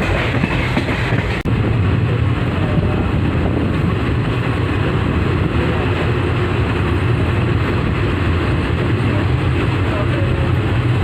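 Passenger train running, a steady rumble of wheels on the track heard from on board, with a brief dip about a second and a half in.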